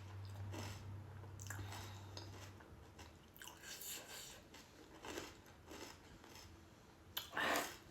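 Panipuri being bitten and chewed, the crisp hollow puris crunching in irregular bites, the loudest one near the end. A low hum runs under the first couple of seconds.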